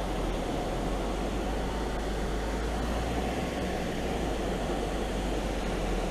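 Steady engine and road noise of a car being driven slowly, heard from inside the cabin.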